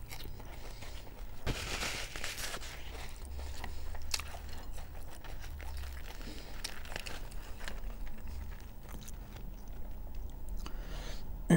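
Close-miked mukbang eating sounds: chewing and crunching on fried liver and crusty bread, with crackles as the bread crust is torn apart by hand.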